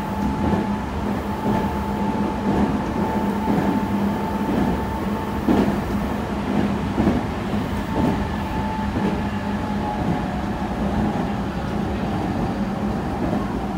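Meitetsu 3100 series electric train heard from inside the car at speed: a steady low hum and a whine from the running gear over a rumble, with the wheels clicking irregularly over rail joints. The whine drops slightly in pitch near the end.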